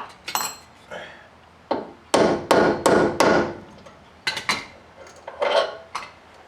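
Hammer tapping on a bolt and washer to drive a new bushing into a truck door hinge: about a dozen sharp metal taps at an uneven pace, the loudest a quick run of four about two seconds in, some with a short ring.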